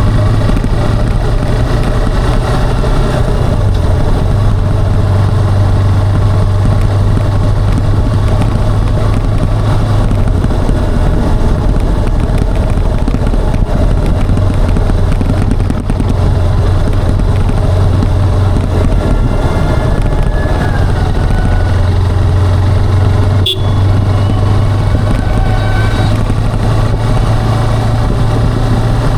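Motorcycle engine and exhaust running steadily while riding, the engine note swelling and easing with the throttle. One sharp click sounds late on.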